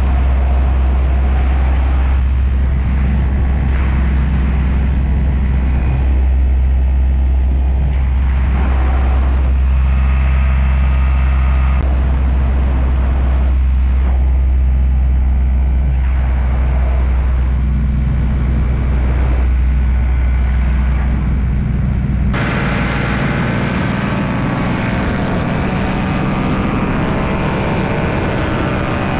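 Paramotor engine running steadily. About 22 seconds in, the sound changes abruptly: the deep hum drops away and higher, denser engine tones take over.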